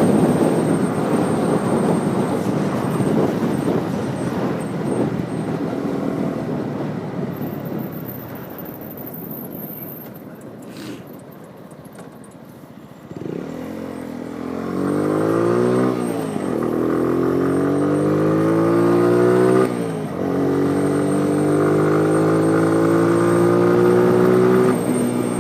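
Motorbike on the move: wind and road rush that dies away as the bike slows, then about halfway through the engine pulls away, its pitch rising steadily in each gear with two upshifts where it drops and climbs again.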